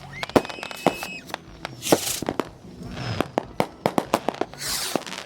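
Consumer fireworks going off: a rapid, irregular string of sharp bangs and cracks, with a hissing burst about two seconds in and another near the end. A high whistle is heard through the first second.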